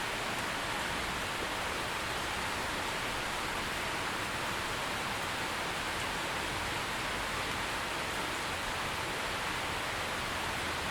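Steady rain: a dense, even hiss of falling drops at a constant level, with no thunder or other events.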